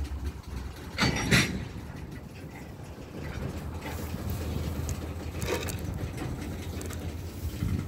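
Freight train slowly backing up, its cars rolling with a steady low rumble, with two short louder bursts of noise, about a second in and again around five and a half seconds.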